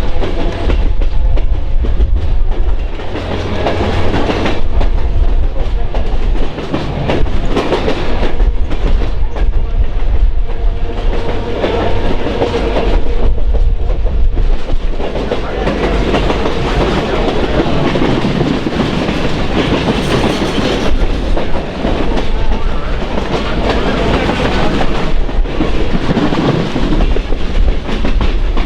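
A train running along the track: a steady rumble of wheels on rail, with clickety-clack over the rail joints.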